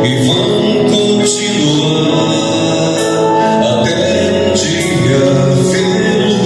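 Portuguese-language gospel worship song: a band playing with sustained chords and cymbal hits, with sung vocals.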